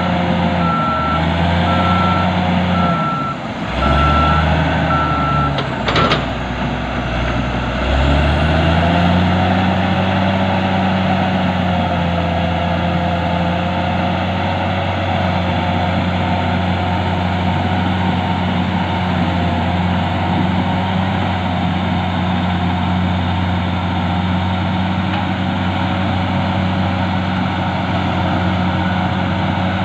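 Diesel engine of heavy earthmoving machinery running under load, with a reversing alarm beeping in a steady repeating pattern that stops about six seconds in. The engine note dips and climbs back over the next few seconds, then runs steadily.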